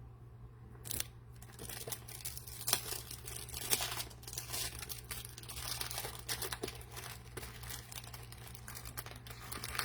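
Packaging being crinkled and torn open by hand: a run of irregular crackles and rips that begins about a second in.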